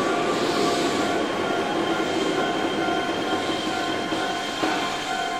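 Keihan electric train running on the track: a loud rumble of wheels on rail with several steady whining tones over it, easing a little in loudness.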